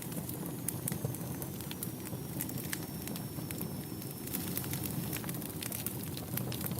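Wood fire in a fireplace burning with a steady low rush and frequent irregular sharp crackles and pops. A faint thin high whistle, falling slightly in pitch, runs through the middle for about four seconds.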